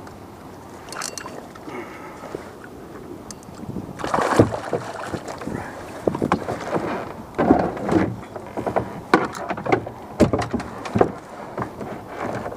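Irregular splashing and knocking on a kayak as a hooked fish is fought and brought aboard. The bursts start about four seconds in, with several sharp knocks among them.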